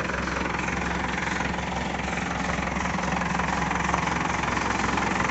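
Heavy vehicle's diesel engine idling steadily, with an even low hum and no change in speed.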